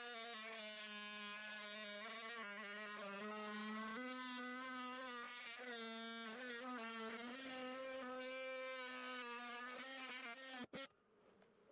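Oscillating multi-tool saw running with a steady buzz while cutting into a wall panel, its pitch shifting with load and stepping up about four seconds in, then cutting off abruptly near the end.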